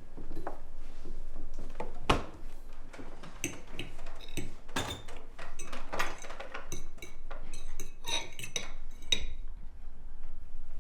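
Cutlery and dishes clinking: a string of light knocks and ringing clinks, busiest in the middle and stopping about nine seconds in.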